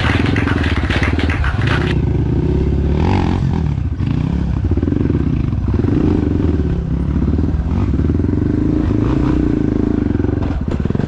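Trail dirt bike's single-cylinder four-stroke engine revving up and down in repeated swells of throttle as it is ridden over rough ground, with clatter from the bike.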